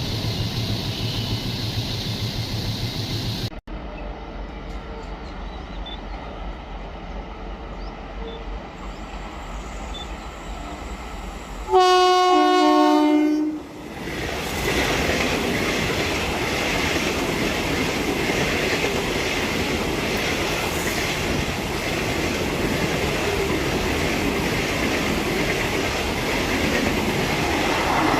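Train horn sounding one loud blast of about two seconds, its pitch stepping down partway through, then the steady rumble and wheel clatter of the train running on the rails.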